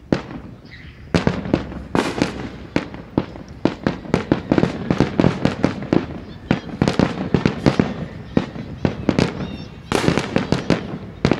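Fireworks grand finale: aerial shells bursting in a dense, overlapping barrage of booms, several a second, building up about a second in.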